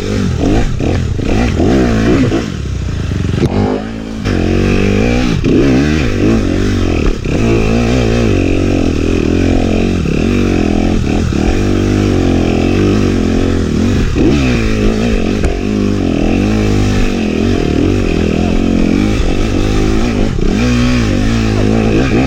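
Dirt bike engine being ridden hard, its pitch repeatedly rising and dropping back as the throttle is opened and closed. It eases off briefly about three to four seconds in.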